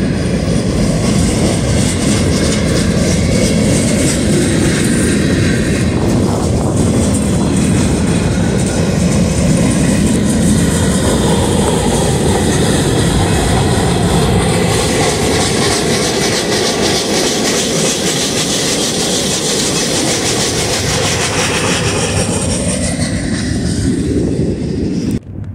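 Freight train of empty centerbeam flatcars rolling past, a loud, steady noise of steel wheels running on the rails. It cuts off abruptly near the end.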